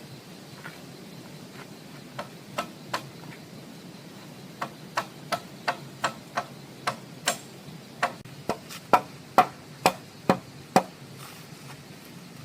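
A series of sharp wooden-sounding knocks, like chopping or hammering, about two to three a second with a short pause early on, the loudest strikes near the end.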